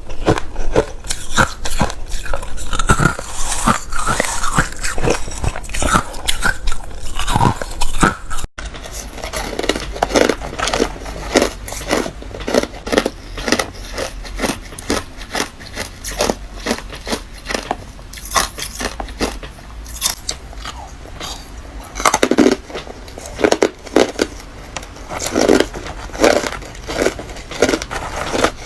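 A person biting and chewing hard refrozen crushed ice: rapid, loud, crisp crunches and cracks one after another. There is a momentary dropout about a third of the way through where one clip is cut to the next.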